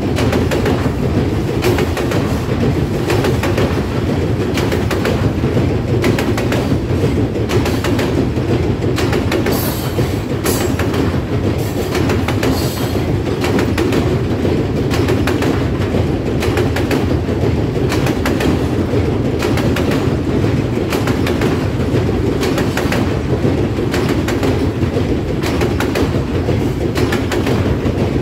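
Loaded tank cars of a freight train rolling across a steel truss railroad bridge: a steady, heavy rumble with a continual clickety-clack of wheels over the rail joints.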